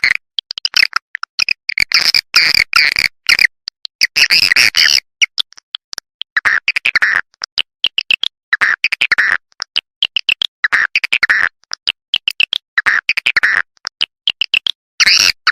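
Swiftlet lure call recording: rapid, dense twittering and chirping of edible-nest swiftlets in short bursts that cut off abruptly, with dead silence between. This is a call track played to draw swiftlets into a nesting house.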